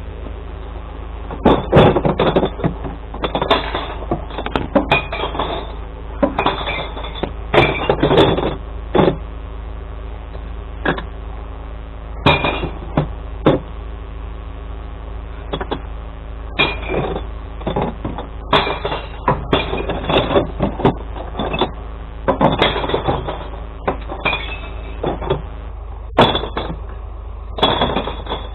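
Glass bottles crashing and clattering in irregular bursts as they are tipped into a glass recycling truck, over the steady hum of the truck's idling engine.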